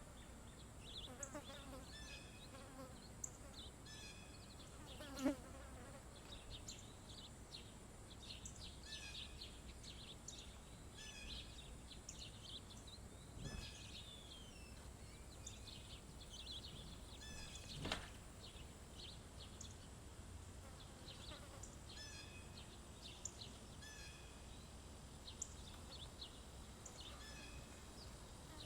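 Small birds chirping around a feeder: many short, high calls scattered throughout, over a faint steady high-pitched drone. Two sharp knocks, about five seconds in and about eighteen seconds in.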